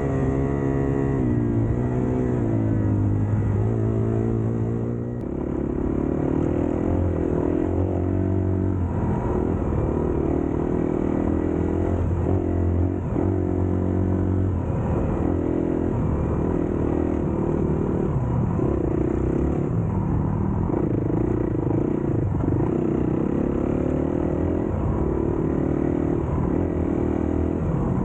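Dirt bike engine running hard, its pitch repeatedly dropping and climbing again as the throttle is worked and gears are changed, with a brief dip about five seconds in.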